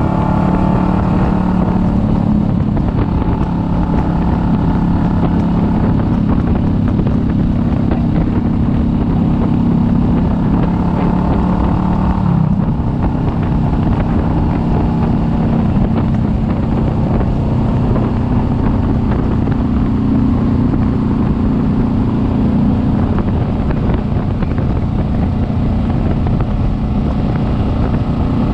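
Kawasaki Vulcan S 650's parallel-twin engine running steadily under way, with wind noise on the microphone. The engine note changes about twelve seconds in.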